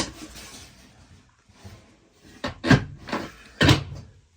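Cabinet doors in an old travel trailer being handled: a sharp knock at the start, then a cluster of knocks and clunks in the second half, with some rubbing between.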